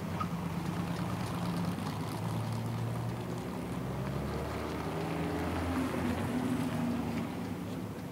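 Engines of 1950s sports racing cars, an Allard J2 and a Jaguar C-Type, running as they drive past on the lot, the engine note rising and falling with the throttle. The note climbs and is loudest about six seconds in.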